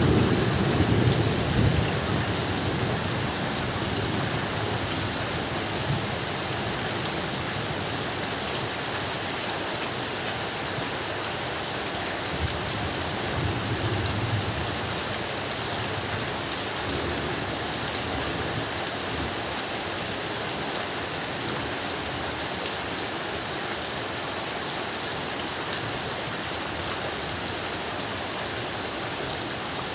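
Steady rain falling in an even hiss. A low rumble of thunder dies away in the first couple of seconds, and a fainter rumble comes about halfway through.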